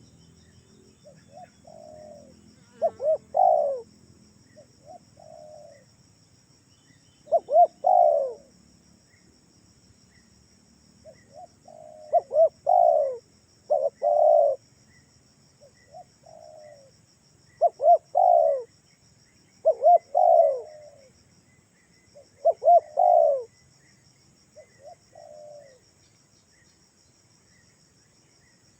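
Spotted dove (tekukur) cooing: soft lead-in notes followed by louder clusters of two or three quick coos, the phrase repeated every few seconds.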